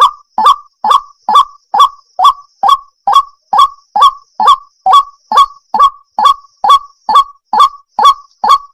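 Waterhen calling: one short call repeated at an even pace, a little over two a second, over and over.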